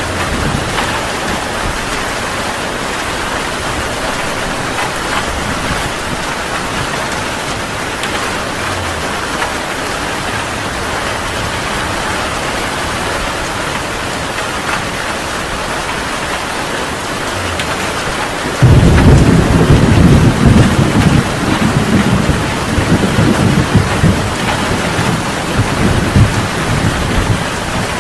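Heavy rain falling steadily, and about two-thirds of the way through a loud clap of thunder that breaks suddenly and rumbles on, rising and falling, almost to the end.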